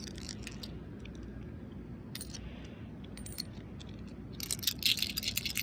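Small hard objects clicking and clinking together: a few scattered clicks, then from about four seconds in a rapid, jingling clatter like coins being gathered and shaken in the hands, over a low steady background rumble.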